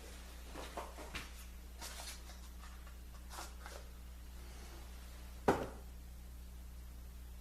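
Clamps and wood being handled: a few faint clicks and light knocks, then one sharper knock about five and a half seconds in, over a steady low hum.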